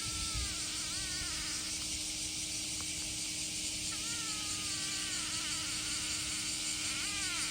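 A steady, high, shrill chorus of summer insects, most likely cicadas. Over it a cat meows three times: once near the start, a longer falling meow about four seconds in, and a short one near the end.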